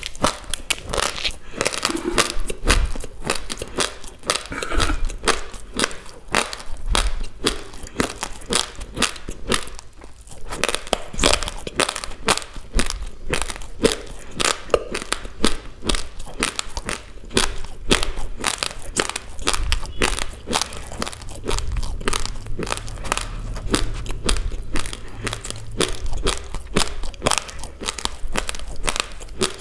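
Close-miked chewing of a mouthful of raw basmati rice: hard, dry grains crunching between the teeth in a dense, continuous run of crackly bites.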